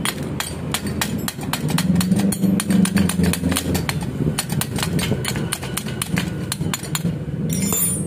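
Quick light metal taps and clicks, several a second, as a too-tight part is worked into place on a Vespa engine under assembly, over a steady low hum of a running motor.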